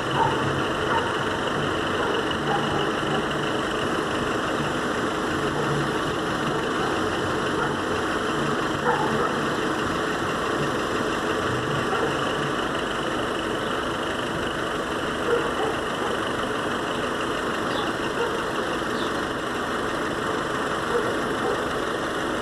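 Vehicle engines running steadily, an even noise that neither rises nor falls.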